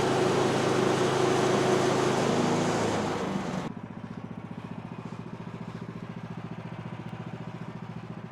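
Woodland Mills HM126 band sawmill running at full throttle with the blade cutting through a log. A little under four seconds in, the sawing noise stops abruptly and the engine drops to a lower, steady idle.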